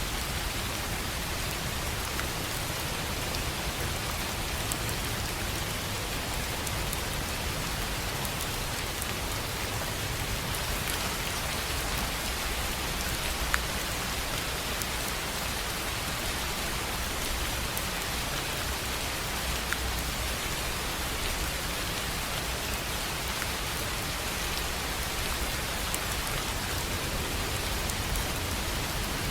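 Steady rain falling on a tin roof, a constant even patter with scattered single drops ticking sharply through it.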